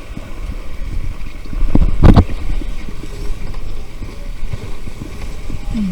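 Wind buffeting the microphone and water rushing past the hulls of a Nacra 15 catamaran sailing fast in strong wind, with one loud thump about two seconds in.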